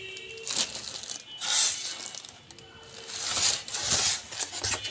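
Handling noise: plastic rustling and knocking in a few short bursts, the loudest about a second and a half in.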